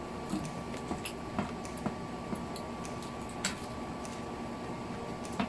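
Someone chewing food with a few small irregular mouth clicks and smacks, over a faint steady hum.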